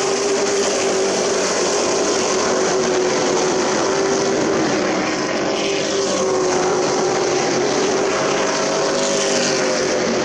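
Super trucks racing on a short oval, their engines running at speed as a steady loud drone whose pitch drifts slowly up and down as the trucks pass.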